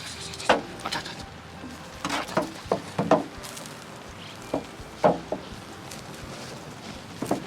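Scattered sharp knocks and clacks at irregular intervals, about a dozen, over a faint steady hiss.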